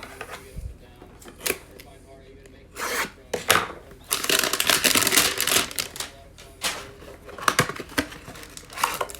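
A trading-card hanger box and its plastic-wrapped pack being torn open, with a long stretch of tearing and crinkling in the middle and a few sharp handling clicks.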